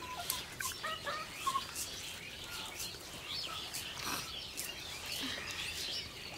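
Small birds chirping and twittering in short, repeated calls, with scattered faint clicks among them.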